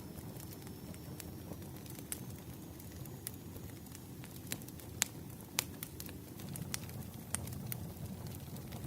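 Campfire burning: a steady low rumble of flames with scattered sharp crackles and pops of burning wood, the loudest pair about halfway through.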